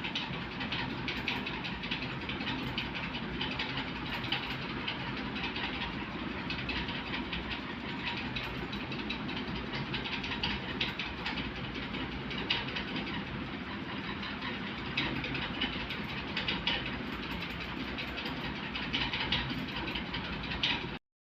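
Raw uncooked rice grains being chewed close to the microphone: dense, continuous crunching and crackling over a steady low hum. It cuts off suddenly near the end.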